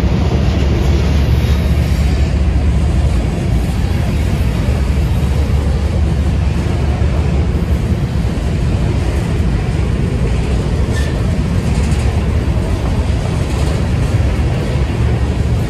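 A train running, heard as a steady loud low rumble under a continuous wash of noise.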